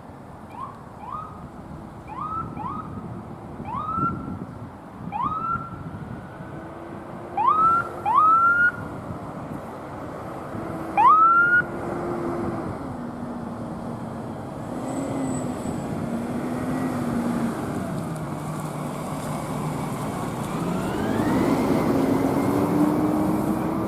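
Emergency vehicle siren: a run of short rising chirps that grow louder as it approaches, then a long low wail that sinks and climbs again near the end, over steady traffic noise.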